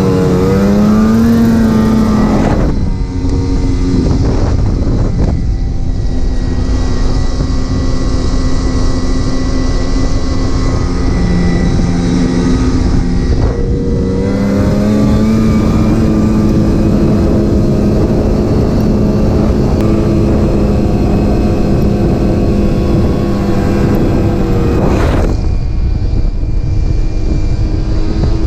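Snowmobile engine running at speed under changing throttle: its pitch climbs at the start, drops about three seconds in, climbs again about halfway through and drops again near the end.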